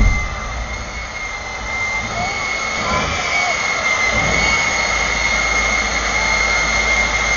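Jet engine of the Kenworth jet truck running with a steady high-pitched turbine whine over a rushing noise. A louder low rumble drops away at the very start.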